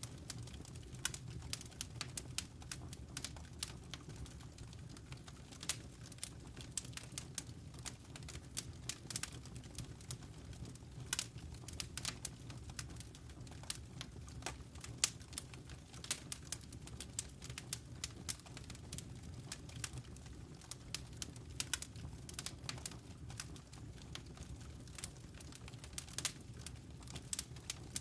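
Wood fire crackling in a fireplace: irregular sharp pops and ticks, several a second, over a steady low rumble of burning.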